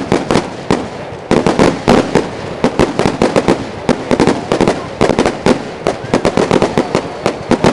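Aerial fireworks going off in a rapid, dense barrage of sharp bangs and crackles, several a second, thickening into a near-continuous run about a second and a half in.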